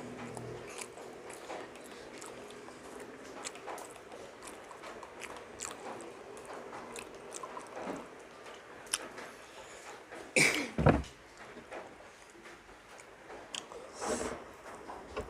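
Close-miked chewing and mouth sounds of someone eating milkfish and rice, with many small wet clicks and smacks. Two louder knocks land close together about two-thirds of the way through.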